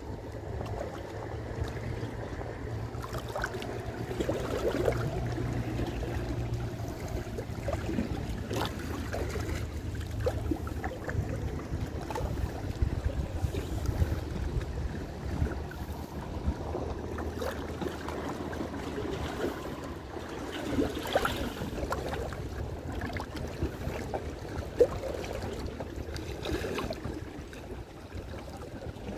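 Seawater lapping and sloshing, with a low steady hum through roughly the first half and scattered small clicks and knocks.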